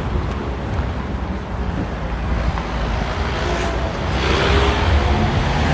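Vehicle engine and road noise on a street, with wind rumbling on the microphone; from about four seconds in it grows louder, as a vehicle comes close.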